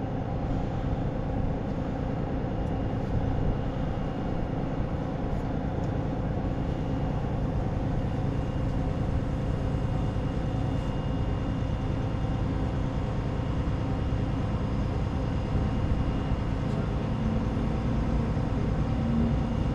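Steady low rumble and hum of running machinery, without pauses or distinct events.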